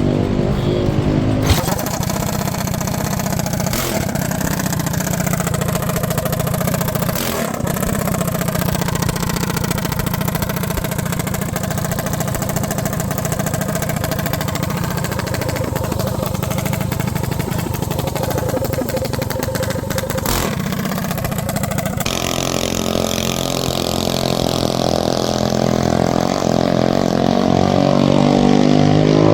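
Minibike engine running continuously at speed. About 22 s in the engine note turns clearer and climbs slightly, getting a little louder toward the end.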